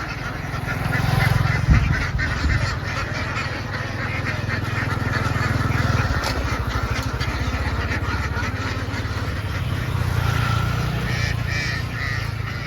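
A large flock of ducks quacking all at once in a dense, continuous din, over a steady low rumble.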